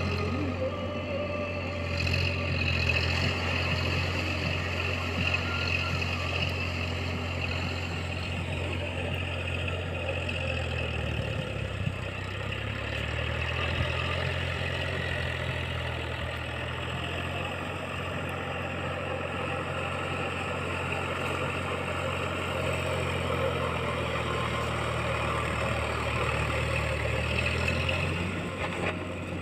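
Tractor diesel engine running steadily, with a brief dip in its note about a third of the way in.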